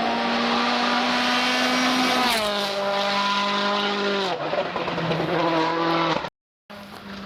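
Rally car engine running hard at high revs, its note steady at first and then dropping in pitch twice, about two seconds in and again about four seconds in. The sound cuts out briefly near the end.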